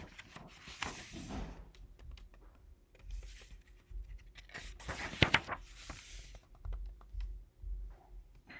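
Picture-book pages being turned and handled: irregular papery rustling and scraping, with a sharp tap about five seconds in.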